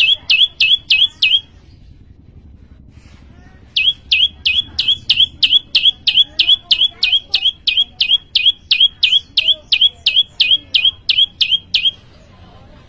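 Prenjak lumut (a prinia) singing a loud, fast series of identical sharp chip notes, about three a second. The first run stops about a second and a half in; after a short pause a long second run follows that stops about a second before the end.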